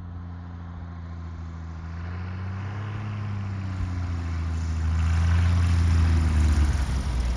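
Piston engine and propeller of a light airplane coming in to land, a steady drone growing louder as it approaches, with a slight rise and then fall in pitch.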